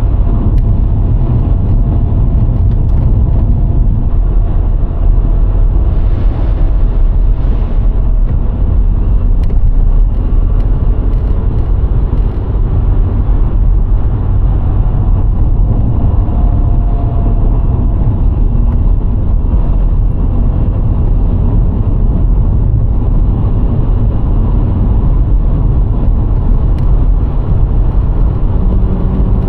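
A VW Golf IV 1.6's four-cylinder petrol engine and its tyres on the road while driving at a steady pace: a constant low rumble of road and wind noise with a faint engine hum.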